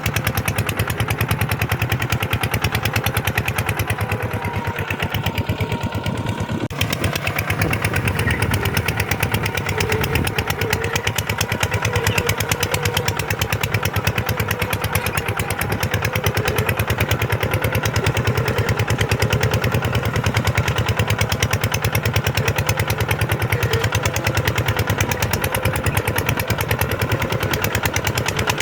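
Kubota tractor's diesel engine running steadily with an even, rapid firing beat.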